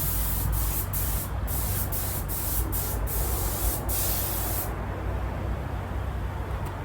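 Spray gun hissing as leather seats are resprayed, in a string of short bursts with brief breaks, cutting off sharply about four and a half seconds in. A low steady hum runs underneath throughout.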